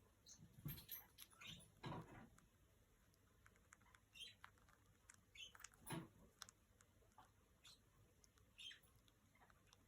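Red-bellied parrot playing with a small foot toy: faint, scattered clicks and rattles as the toy is handled. There are a few short high squeaks among them.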